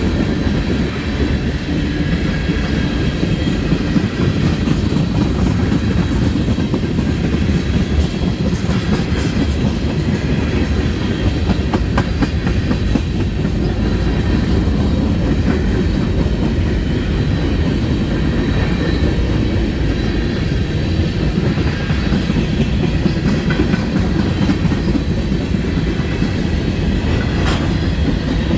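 Norfolk Southern manifest freight train's cars rolling past, a loud, steady rumble of steel wheels on the rails with occasional clicks.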